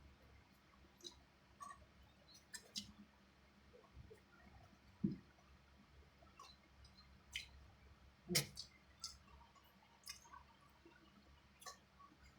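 Scattered soft wet clicks and smacks of a person eating adobo chicken feet, chewing and sucking at them, with two louder knocks about five and eight seconds in.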